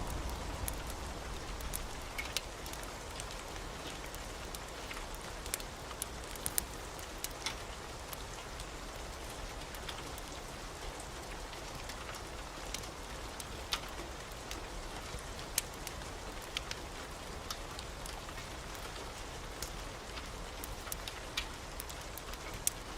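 Steady rain with scattered sharp crackles, typical of a wood fire in a fireplace. A low rumble of thunder dies away at the start.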